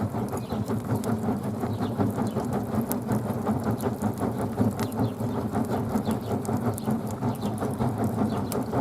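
Campfire burning up close: dense, rapid crackling over a steady low roar.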